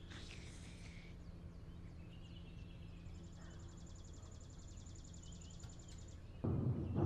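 Quiet morning room ambience with a low steady hum and faint birdsong: a short chirp at the start and a rapid high trill in the middle. Near the end, loud music with drums suddenly comes in.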